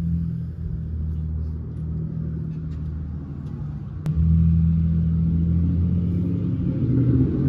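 A car's engine idling, heard inside the cabin: a steady low hum, with a click about four seconds in, after which the hum gets louder.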